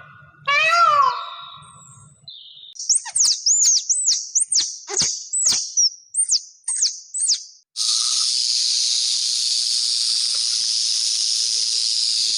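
A cat meows once, then a bird gives a quick run of about ten high chirps, then a snake hisses steadily for about five seconds.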